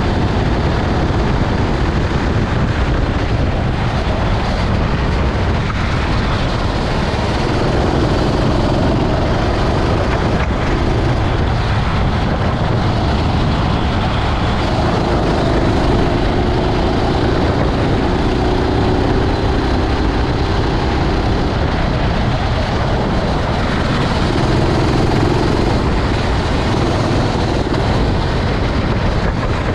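Racing kart engine running at speed, its pitch rising and falling through the laps, under a heavy steady rushing noise.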